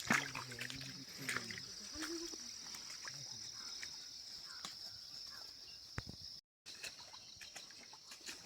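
Insects trilling outdoors, one continuous high-pitched drone, with faint voices in the first couple of seconds and a few light clicks. The sound cuts out for a moment about six and a half seconds in.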